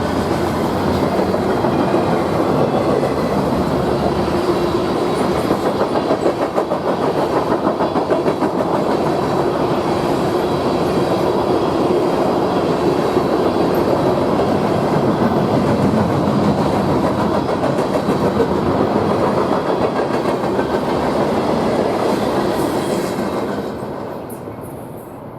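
Train passing at speed, its wheels clattering fast and steadily over the rails. The sound falls away quickly about 23 seconds in.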